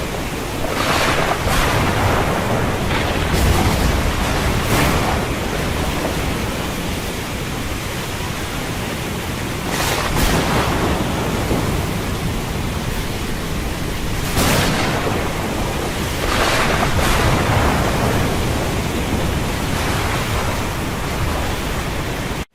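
Storm wind and heavy sea: a steady rush of wind and water, with a wave crashing or spray striking every few seconds. The sound cuts out abruptly for an instant at the very end.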